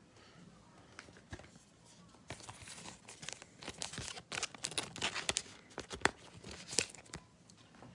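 Crinkling and tearing of trading-card packaging: a run of crackles and short rasps that starts about two seconds in and stops about a second before the end.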